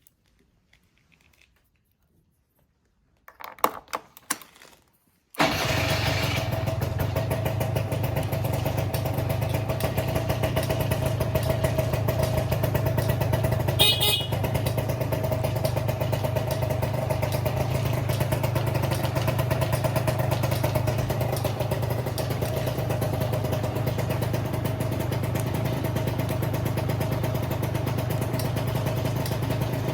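Honda Joker 90 scooter's two-stroke engine being started: a few short cranking noises, then it catches about five seconds in and idles steadily through an aftermarket muffler. A brief tick sounds partway through.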